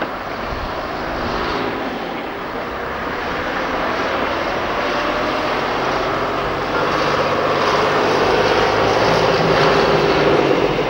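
A diesel train's engine drones steadily, growing louder through the clip as the train draws nearer.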